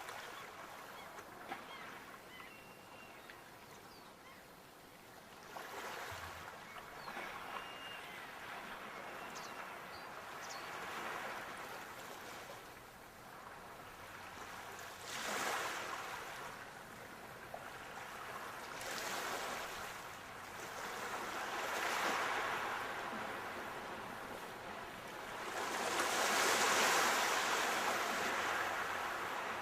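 Sea waves breaking and washing ashore, surging in loud swells every three to four seconds, the biggest near the end.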